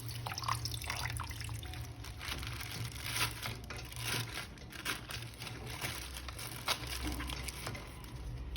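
Water splashing and trickling at a sink as a plastic action figure is washed, with irregular small knocks and rustles from handling it.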